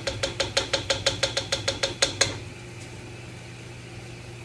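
A spoon stirring pasta sauce in a pot, knocking rapidly and evenly against the side with small ringing clicks, about seven a second, that stop about two seconds in. A steady low hum runs underneath.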